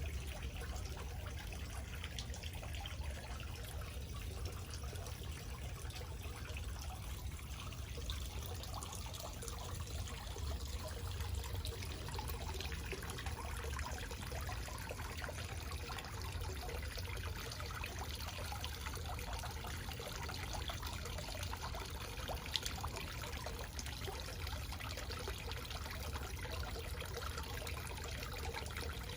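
Small backyard waterfall splashing and trickling steadily into a pool, with a constant low rumble under the splashing.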